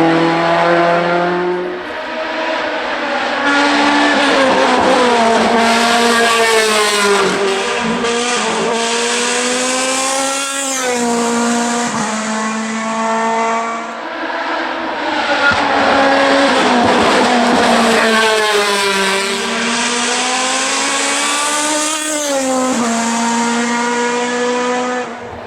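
Hill-climb race car engines at hard throttle, the pitch climbing steeply and dropping again and again as the cars change gear and brake for corners.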